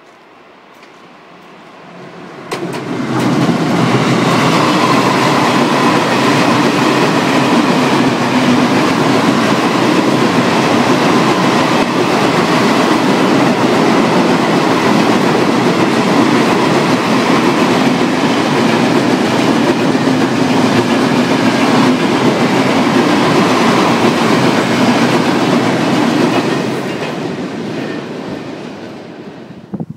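Siemens Vectron electric locomotive and a long rake of tank wagons passing close by: the noise of the wheels clattering on the rails sets in suddenly about two and a half seconds in. It stays loud and steady while the wagons roll past, then fades over the last few seconds as the train recedes.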